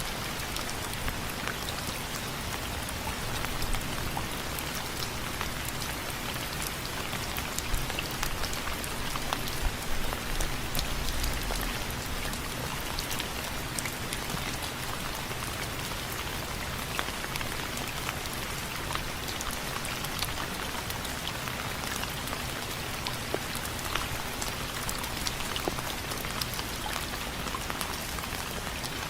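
Steady rain with many individual drops tapping on a window frame, a little heavier for a few seconds near the middle.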